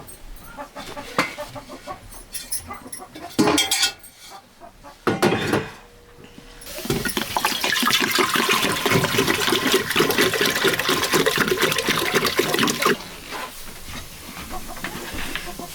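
Scattered knocks and clatter, then a loud rush of water pouring or splashing that starts about seven seconds in and stops abruptly about six seconds later.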